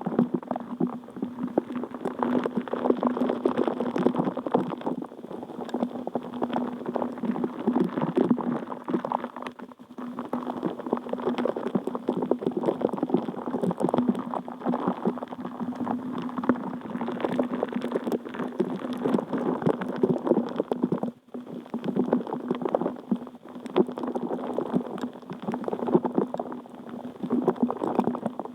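Water bubbling continuously, a dense stream of small pops and gurgles over a steady low hum. It thins out briefly twice.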